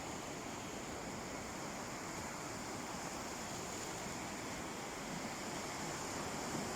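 Gentle sea waves washing onto a beach: a steady wash of surf that swells slightly near the end.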